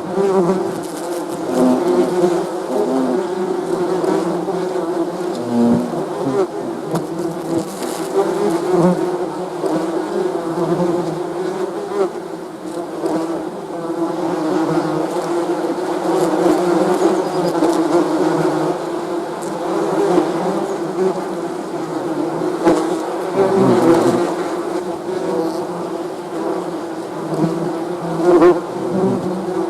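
Honeybees buzzing in a steady swarm-like drone, many wingbeats blending into one hum whose pitch and loudness waver slightly.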